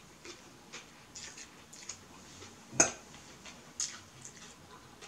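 Close-up eating sounds of a person chewing a mouthful of stir-fried noodles: irregular wet mouth clicks and lip smacks, with one louder sharp smack or knock a little under three seconds in.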